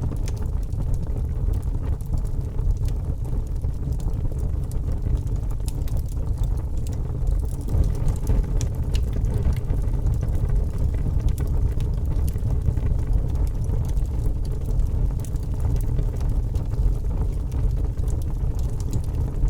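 Log fire burning in a fireplace: a steady low rumble of the flames with many small, irregular crackles and pops.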